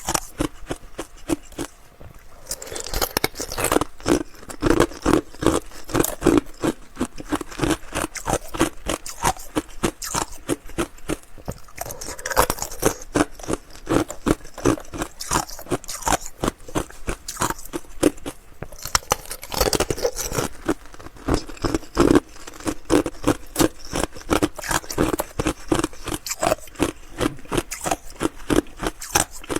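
Ice being chewed close to the microphone: a fast, continuous run of crisp crunches and cracks, with louder bursts of crunching from time to time.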